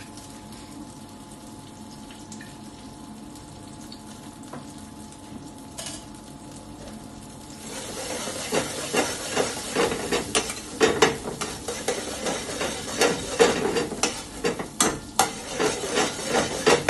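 Hot oil in a pan sizzling steadily with mustard seeds in it. About eight seconds in the frying gets louder, with a metal spoon repeatedly scraping and knocking against the pan as the contents are stirred.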